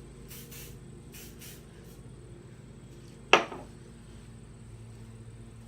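Aerosol hairspray sprayed in three short hissing bursts within the first second and a half, followed about three seconds in by one sharp, loud knock.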